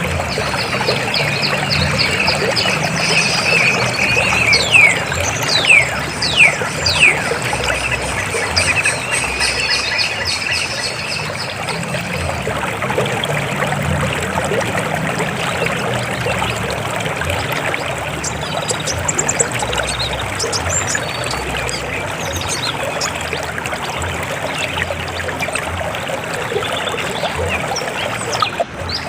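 River water flowing steadily, rushing and splashing. Several short, high, falling whistles sound over it in the first few seconds.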